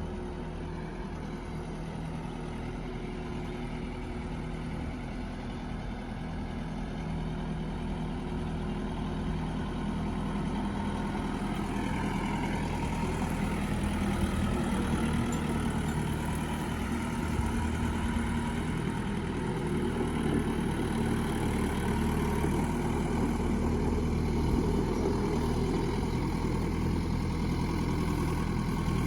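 Farm tractor engine running steadily, gradually getting louder.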